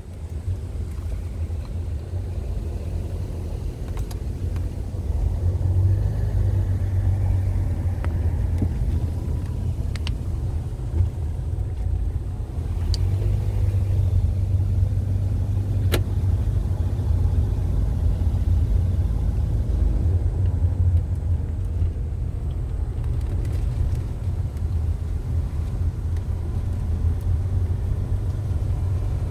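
Car driving along a road: a steady low rumble throughout, with a few isolated sharp clicks.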